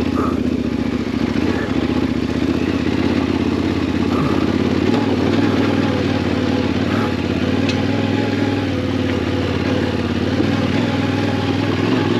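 Yamaha Ténéré 700's parallel-twin engine running at a steady engine speed, with no revving up or down.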